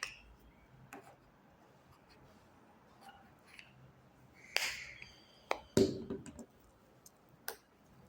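Handling noises: scattered small clicks and taps, a short brushing rustle about four and a half seconds in, and a louder knock about a second later.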